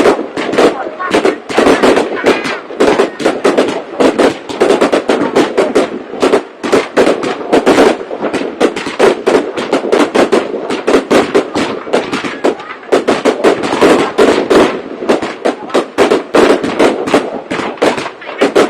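Fireworks going off in a dense, continuous stream of bangs and crackles, many each second, with no pause.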